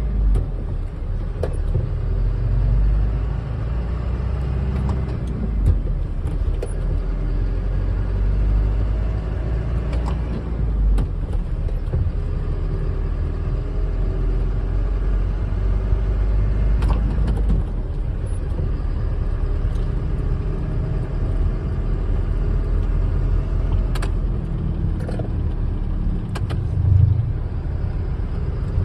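Truck engine running at a steady idle, a constant low rumble with a few faint clicks.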